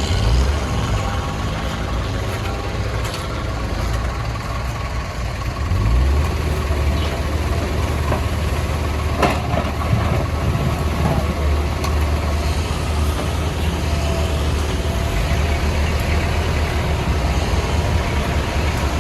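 Diesel engine of a CAT 462F backhoe loader running steadily. It gets louder about six seconds in, and there is a single sharp knock about nine seconds in.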